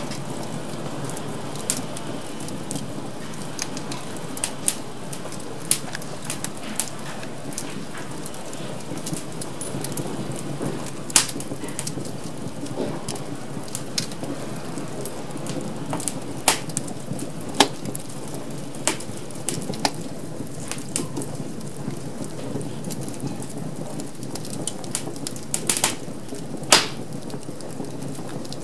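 Wood fire crackling in a fireplace: a steady hiss and rustle of flames with irregular sharp pops, a few of them louder, scattered throughout.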